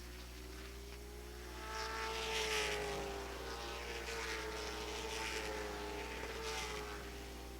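Late model stock cars racing past on the track. Their engines swell to a peak about two seconds in, hold with a slight drop in pitch, then fade near the end.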